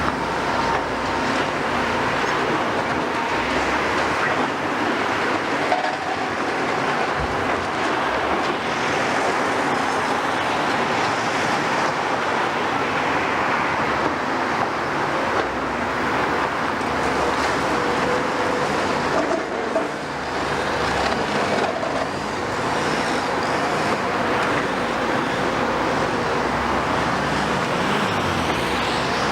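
Heavy construction machinery running steadily: a continuous, even noise with faint steady tones and no clear impacts.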